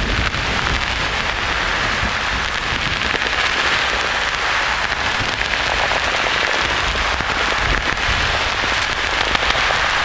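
Steady, even hiss of white noise sounding like heavy rain.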